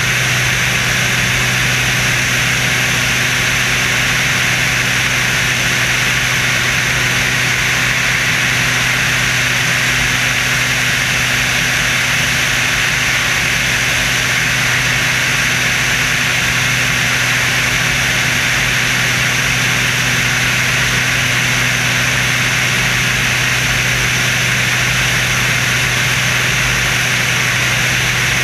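Screamin' Sasquatch aircraft's engines running at a steady pitch with a loud hiss of wind and engine noise and a low hum underneath, unchanging throughout.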